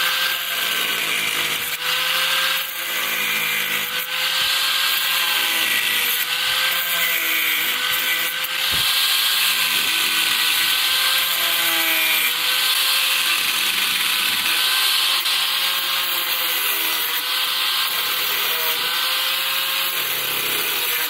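Handheld electric power tool running steadily while cutting through plastic brick-style lawn edging. Its motor pitch wavers a little as the blade bites into the plastic.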